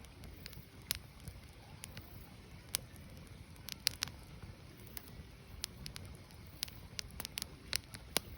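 Wood fire burning: logs crackling with irregular sharp pops, several louder snaps among them, over a low steady rumble of the flames.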